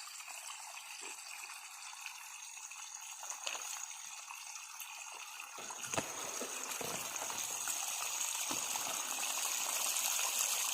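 Well water gushing and splashing out of an irrigation outlet, fuller and louder from about halfway in.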